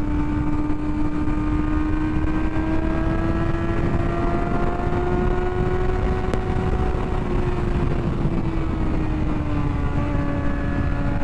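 Motorcycle engine running at a steady cruise under heavy wind rush on the microphone. The engine note climbs slightly through the middle, then eases off over the last few seconds as the bike slows.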